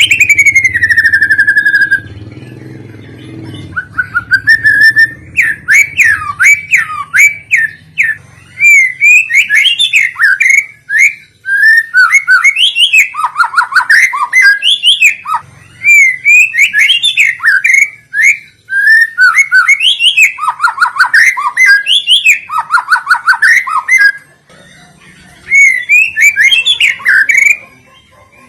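White-rumped shama (murai batu) singing a long, varied song of rapid whistled phrases and trills, with a low hum underneath for the first few seconds.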